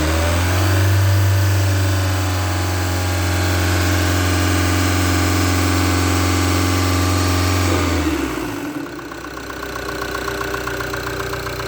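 Ram Rampage 2.2 four-cylinder turbodiesel revved up from idle and held at a steady raised speed, then released about eight seconds in and dropping back to a steady idle. Its knock and clatter are normal for this diesel.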